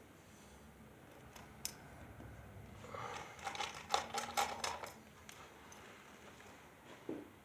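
Small metal hardware clicking and clinking in a quick run of sharp strikes about three to five seconds in.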